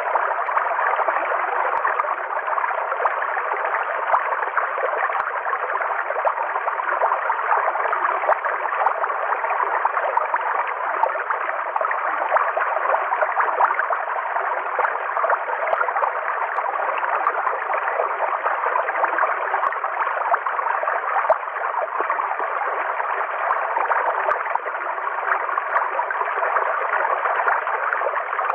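River water flowing steadily over a forest streambed: an unbroken, even rush with a light gurgle.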